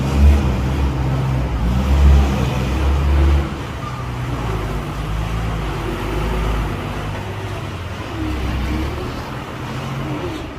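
A heavy dump truck's diesel engine running, loud for the first three and a half seconds, then dropping to a lower, steadier running sound.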